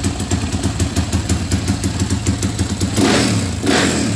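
Honda CRF dirt bike with a 270cc single-cylinder four-stroke engine idling with a fast, even beat, then revved twice in quick throttle blips near the end.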